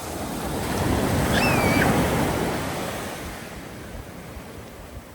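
Surf of a rough tropical sea: a wave breaks and washes up the shore, swelling to a peak about two seconds in and then fading away.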